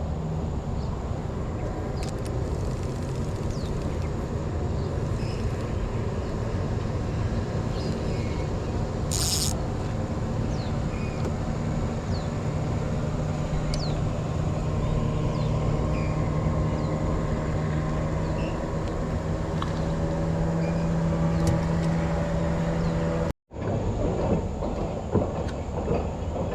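Small boat's outboard motor running at a steady speed. Its drone holds one pitch and firms up about halfway through. Near the end it breaks off for an instant at a cut and comes back rougher.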